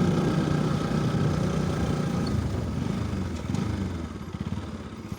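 Motorcycle engine running while riding, a steady drone that gets quieter about three and a half seconds in. The bike is a road sport bike.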